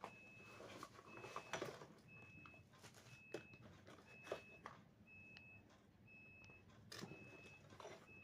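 A faint high beep repeating about once a second, with scattered light clicks and knocks.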